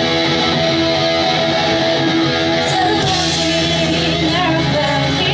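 Live pop-punk band playing: a held electric guitar chord rings, then drums with cymbal crashes and the full band come in about three seconds in, with singing.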